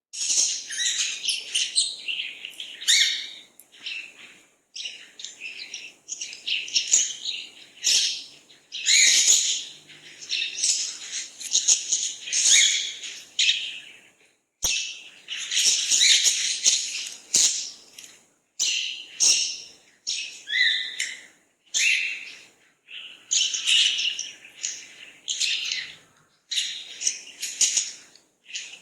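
Songbirds chirping and singing, several calls overlapping in quick, busy bursts, with a few brief breaks to silence.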